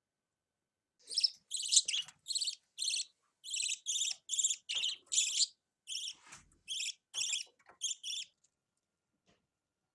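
Young budgerigar calling: a quick run of about fifteen short, raspy, high-pitched chirps over some seven seconds, starting about a second in.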